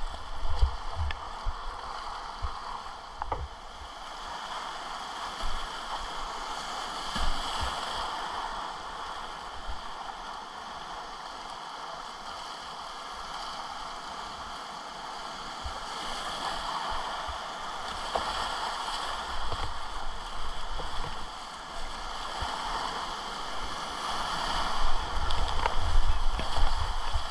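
Whitewater rapids rushing steadily, with low buffeting and a few knocks on the microphone near the start and again near the end.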